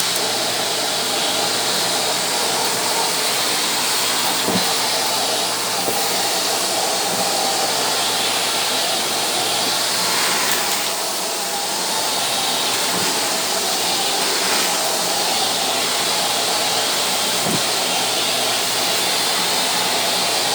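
Shark floor cleaner running steadily with a continuous rushing hiss as it is worked across the floor.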